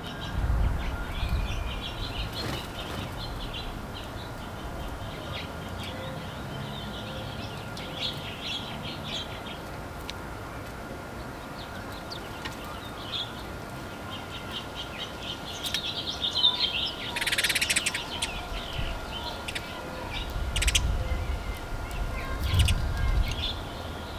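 Small backyard songbirds chirping and twittering in many short, high calls, with a brief rush of wing flaps about two-thirds of the way through. A low rumble comes in at the start and again near the end.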